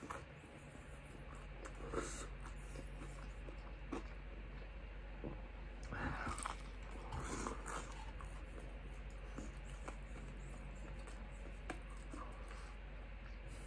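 A person chewing and biting into a crispy breaded fried chicken tender, with faint wet mouth clicks; a louder bite and crunch about six seconds in, and another just after seven seconds.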